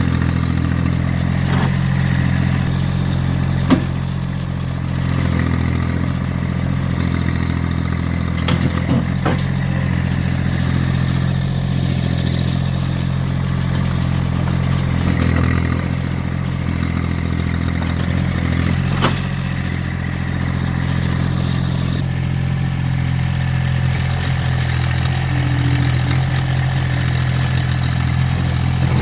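Massey Ferguson GC1710 sub-compact tractor's diesel engine running steadily under work, with a few sharp clanks and scrapes as the bucket digs at a buried chunk of concrete.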